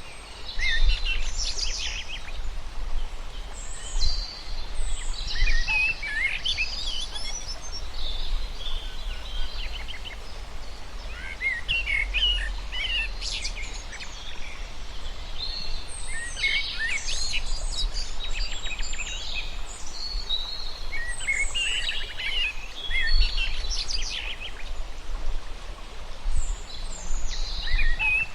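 Several birds chirping and calling in quick overlapping phrases of short high chirps and trills, over a steady low rumble.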